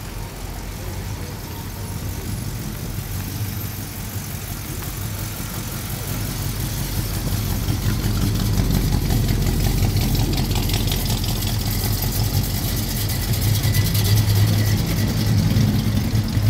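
Car engine rumbling at low speed as it drives out, growing louder from about halfway through as it comes closer.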